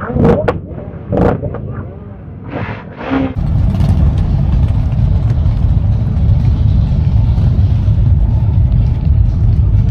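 Motorcycle on the move: a loud, steady low rumble of engine and wind sets in suddenly about three seconds in, after a few short voice sounds and clicks.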